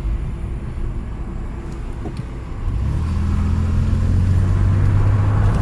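Car engine and road noise heard from inside the moving car; it grows louder about halfway through with a steady low engine hum, as the car picks up speed.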